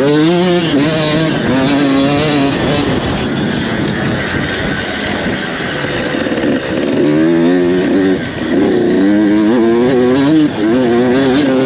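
Motocross dirt bike engines running hard on the track, their pitch rising and falling again and again as the throttle is opened and shut.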